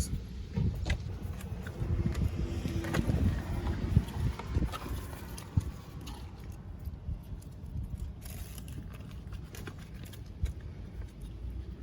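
Rustling and clicking handling noises from fiddling with balloons and ribbon, over a steady low rumble, with a brief squeaky tone about two to three seconds in and a few sharper knocks around four seconds.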